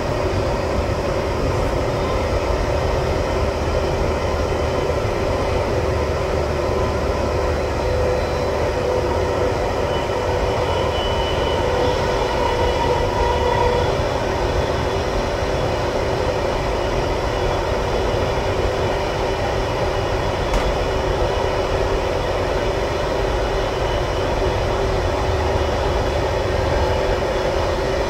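Steady rolling noise of an intercity passenger train running at speed, its wheels on the rails, heard from the last carriage. A faint higher tone rises and fades around the middle.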